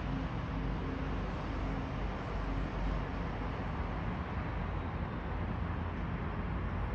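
Steady outdoor background noise: a low rumble with a hiss over it, with no distinct events.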